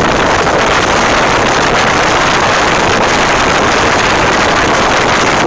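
Loud, steady rush of wind buffeting the phone microphone, mixed with road and engine noise, as a modified 1996 Mustang GT convertible drives at speed.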